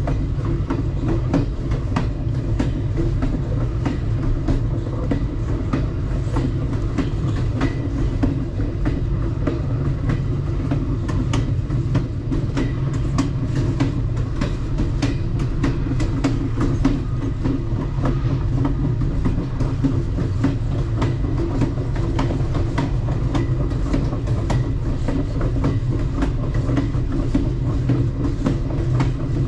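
Alaska Railroad passenger train running along the track: a steady low rumble of the wheels on the rails, with frequent irregular clicks and clacks.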